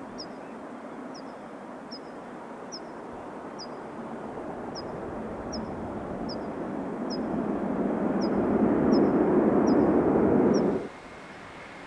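Airbus A320 jet airliner on its landing approach, its engine noise swelling steadily over several seconds to a loud peak, then cutting off suddenly near the end. A bird chirps throughout, a short high note repeating slightly faster than once a second.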